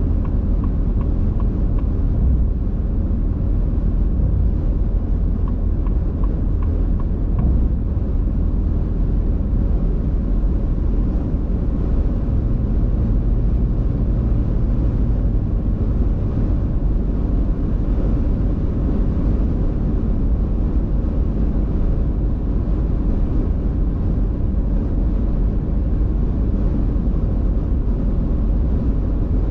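Steady low rumble of a car driving: engine and tyre noise on the road.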